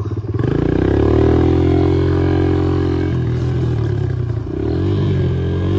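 Dirt bike engine revving up and pulling under throttle. It eases off about three seconds in and again near the end before picking back up.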